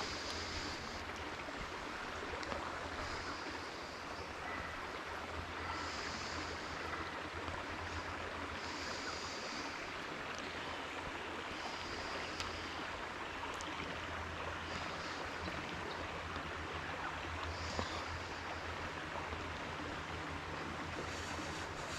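Steady rush of flowing creek water, with a short high call repeating about every three seconds over it.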